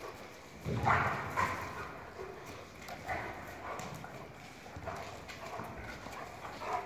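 Kangal dogs moving about, with irregular thuds and scuffing steps. The loudest thud comes about a second in.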